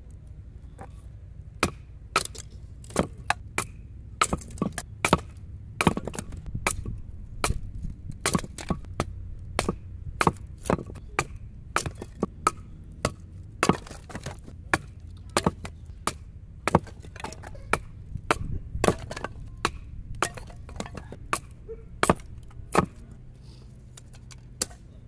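Firewood being chopped and split with a Ka-Bar BK2 knife: a run of sharp wooden knocks at about one or two a second, stopping near the end.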